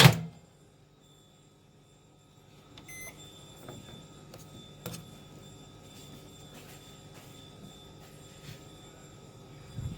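A microwave oven's door shuts with a loud knock, a short keypad beep sounds about three seconds in, and the oven then runs with a low steady hum.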